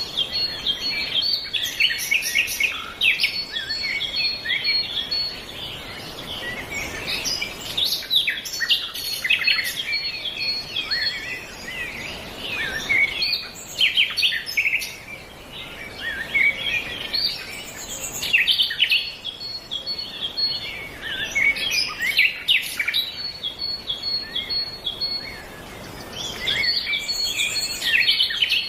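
Birds chirping and calling in a dense, overlapping chorus of short high chirps. Now and then a rapid, even series of high pips runs through it for a few seconds.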